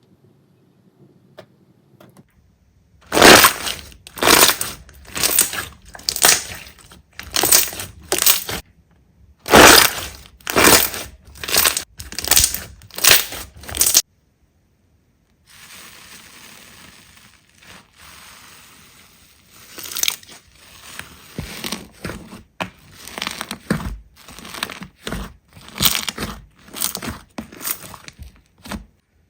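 Slime being squeezed and pressed by hand: a run of loud, short bursts about once a second, then after a break of a second or so a quieter run of shorter bursts over a faint hiss.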